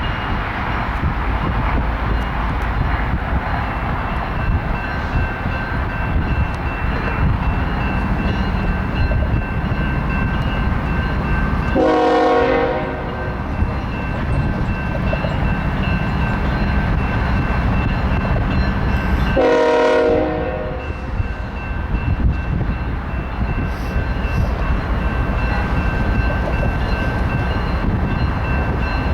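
BNSF auto rack freight train rolling by with a steady rumble of wheels on rail. The diesel locomotive's horn sounds two short blasts, about twelve and twenty seconds in.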